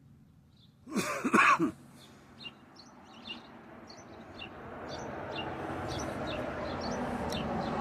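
A man clears his throat sharply about a second in, while small birds chirp again and again. A steady rushing noise swells from about halfway and stays.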